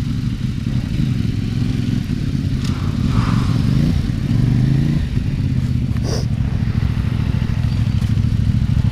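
Adventure motorcycle engine running under way off road, the revs climbing twice and then dropping back. A single sharp knock about six seconds in.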